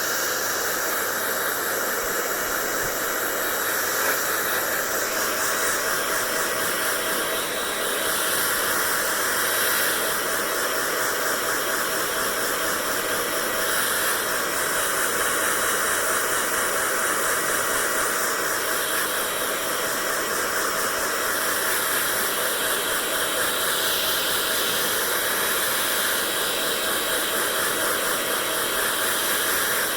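Hair dryer running steadily: a continuous rush of blown air with a faint low motor hum, unchanging in level.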